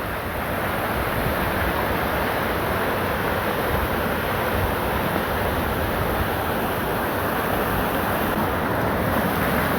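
Steady rushing of a river in flood, its swollen, fast-flowing water making an even, unbroken noise.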